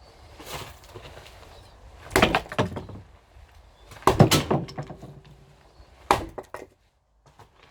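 Firewood being split with an axe: three heavy wooden knocks about two seconds apart, the first two followed by a short clatter.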